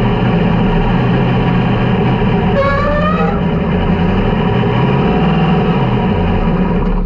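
360 sprint car V8 engines running hard on a dirt oval during qualifying: a loud, steady multi-toned engine drone, with a brief rising note about three seconds in as a car gets on the throttle.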